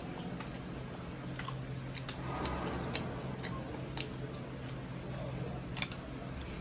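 Crunching and crackling of deep-fried crispy pata skin as it is eaten: scattered sharp crisp clicks at irregular intervals, over a steady low hum.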